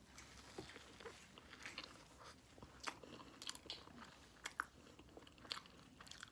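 A person biting into and chewing corn on the cob coated in crushed hot chips: quiet, irregular crunching and mouth clicks, with a few louder crunches from about three seconds in.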